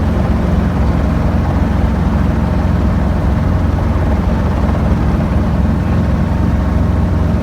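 Small training helicopter's engine and rotor running, a steady, even low drone with no change in pitch or level.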